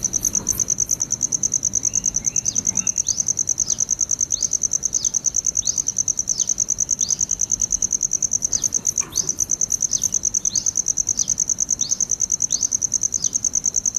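An insect chirring in a fast, even, high-pitched pulse, cricket-like. Over it, a short falling chirp repeats a little more than once a second.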